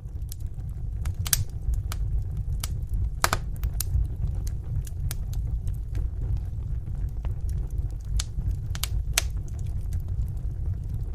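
Wood fire burning in a fireplace: a steady low rumble with irregular sharp crackles and pops, a loud pop about three seconds in.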